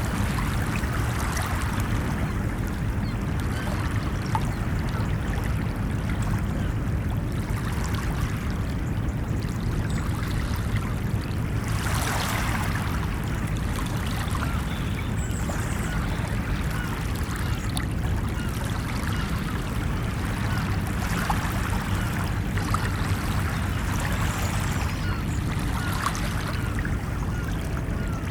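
Ocean waves washing steadily onto a beach, with one brighter, louder wash about twelve seconds in.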